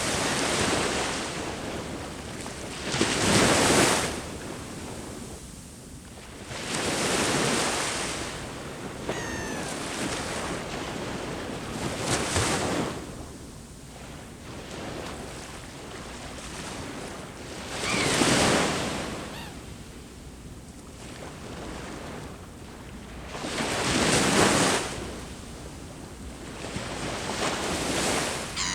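Sea waves breaking on the shore: five separate surges, each swelling and then washing back, with a steady hiss of surf between them.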